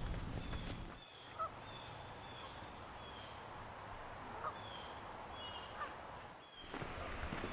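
Wild birds calling: a short high chirp repeating roughly twice a second, with a few lower, honk-like calls about a second and a half, four and a half, and six seconds in. A low steady hum is heard for the first second and then stops.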